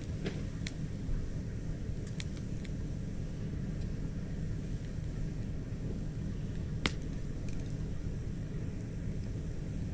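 Wood campfire crackling, with a few sharp pops scattered through, the loudest about seven seconds in, over a steady low rumble.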